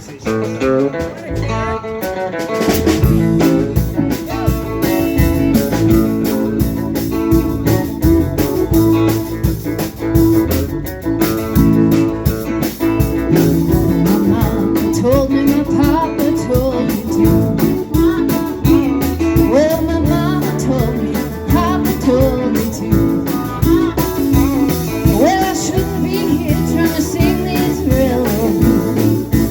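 Live band music in a blues-rock style, with guitars and a drum kit, the full band kicking in about two and a half seconds in.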